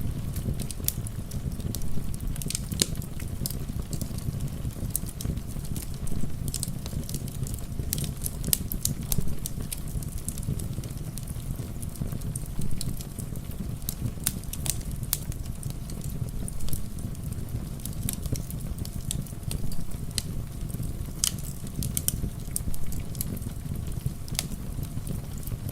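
Wood fire crackling with many small, irregular pops over a steady low rush of rain.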